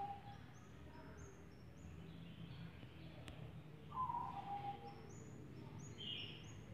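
Birds calling: a short falling two-note call about four seconds in, and runs of high, thin chirps stepping up and down near the start and again near the end, over a faint steady background noise.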